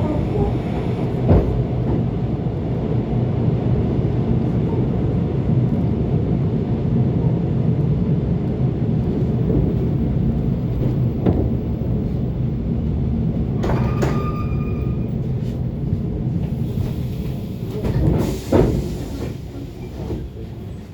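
ET2 electric train heard from inside: a steady low hum with a few sharp knocks and clunks, and a short high beep about fourteen seconds in.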